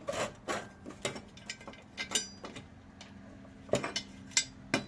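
Irregular metal clicks and clinks as lawnmower blade hardware is handled and fitted: washers, nut and blade knocking together, with louder clinks near the end over a faint steady hum.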